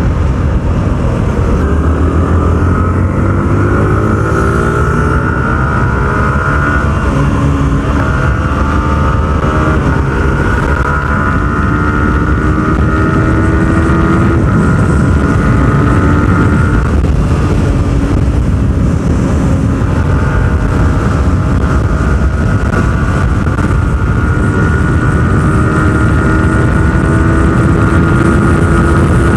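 Yamaha R15 V4's 155 cc single-cylinder engine under hard acceleration on a top-speed run. The engine pitch climbs, drops at an upshift about a quarter of the way in and again around the middle, then holds high. Heavy wind rush over the microphone runs throughout.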